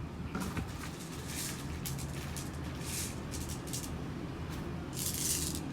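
Faint handling noise from a plastic B-Daman toy fitted with a magazine stabilizer: scattered light taps and short rustles over a steady low hum, with a longer rustle near the end.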